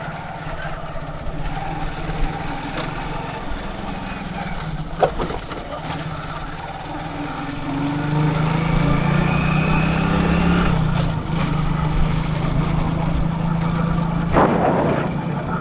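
Motorcycle engine running steadily while riding, under wind and road noise. The engine note grows louder and rises slightly about eight seconds in, dips briefly a few seconds later, and a short gust of noise comes near the end.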